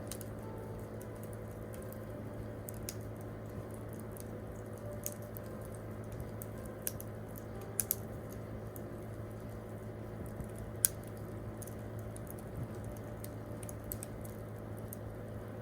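Wood campfire crackling: scattered sharp pops and snaps over a steady low background, with a quick pair of louder pops near eight seconds in and the loudest single pop about eleven seconds in.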